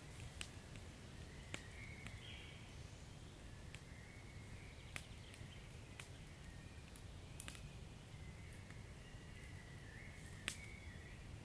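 Wood fire crackling faintly, with scattered sharp pops over a low steady rumble; the loudest pop comes near the end.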